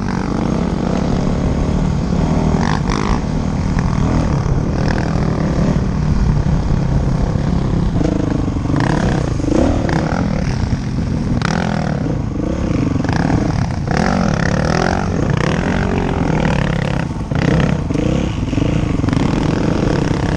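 Dirt bike engine running, its pitch rising and falling repeatedly as it revs up and eases off.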